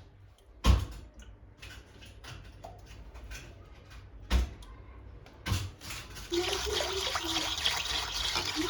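A few sharp knocks, then water starts running steadily about six seconds in.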